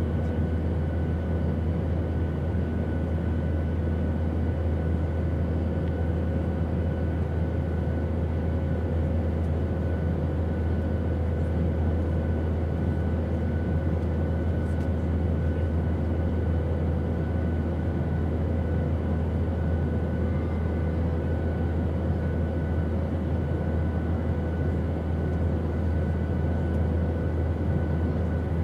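Airplane cabin noise: a steady low drone of engines and rushing air, with a few faint steady tones above it and no change in level.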